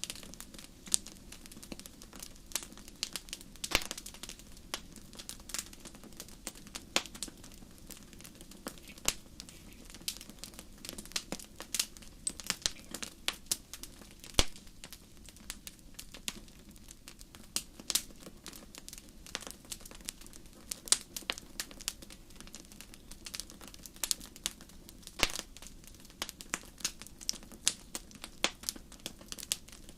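Wood fire crackling: frequent sharp, irregular pops and snaps over a low steady hiss of flame.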